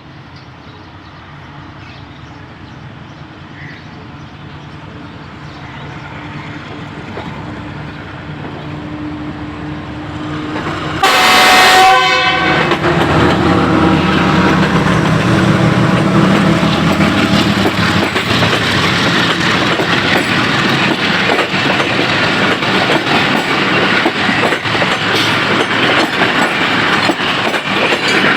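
A Pakistan Railways GEU-40 diesel-electric locomotive and its train approach, growing steadily louder. About eleven seconds in the locomotive sounds its horn once, for about a second. The train then runs close past with loud wheel clatter on the rail joints.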